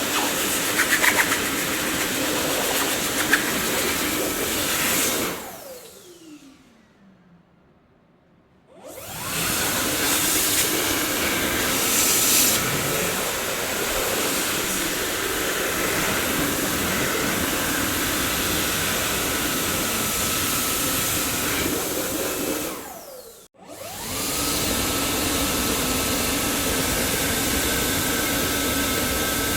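Dyson vacuum cleaner running with a steady rush of air. About five seconds in the motor winds down with a falling whine to near silence, then starts up again about three seconds later; a little past the middle it cuts out for a moment and comes straight back, running on with a steady high whine.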